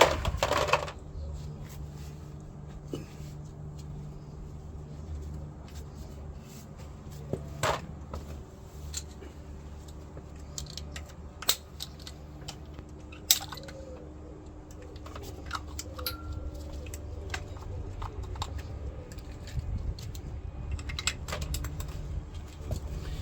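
Hand tools and metal parts being worked on a VW Polo Mk2F engine during a strip-down: scattered clicks, taps and knocks, with a short clatter at the start and a sharp knock about thirteen seconds in, over a steady low hum.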